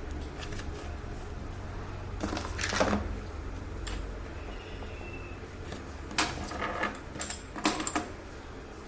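Small hard objects, tools and phone parts, clicking and clinking as they are handled and set down on a hard work surface: a short run of clicks about two seconds in and a cluster of knocks near the end, over a low steady hum.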